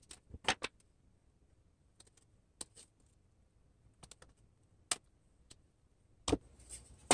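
Sharp, irregular clicks and snips as notches are cut into a birdhouse side piece where it will be bent, with a louder rasping burst right at the end.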